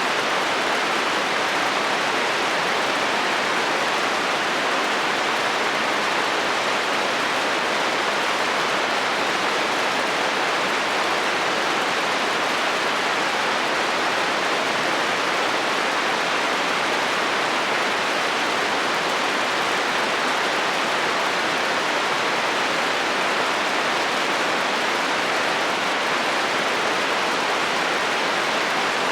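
Steady, heavy rain falling on a metal roof, an even hiss that does not change throughout.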